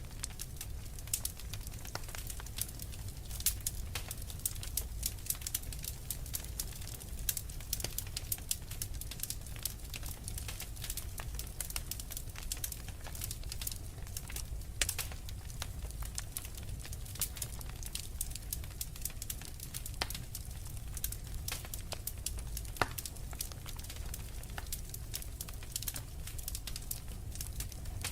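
Fireplace fire crackling, with frequent irregular snaps and a few louder pops over a steady low background.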